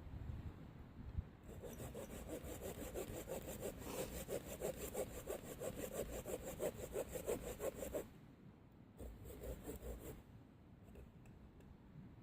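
Hand saw cutting through a branch with quick, even back-and-forth strokes; it stops about eight seconds in, and a few more strokes follow a second later.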